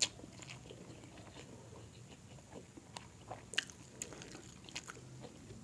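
Close-up eating sounds of grilled chicken inasal being chewed: soft chewing with scattered small wet clicks and smacks, a few sharper ones about three and a half seconds in.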